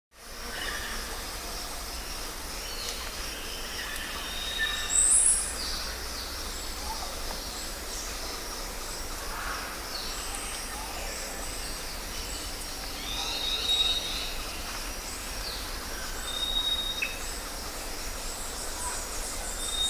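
Several birds chirping and calling, with short high chirps and a few held whistled notes; the loudest is a sharp high call about five seconds in. A steady low rumble lies underneath.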